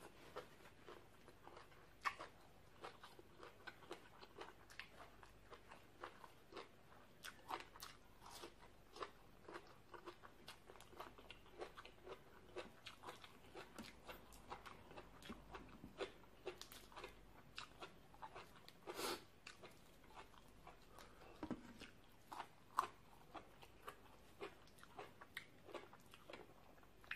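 Faint close-up chewing of crisp raw vegetables and salad: irregular crunches with wet mouth clicks and smacks.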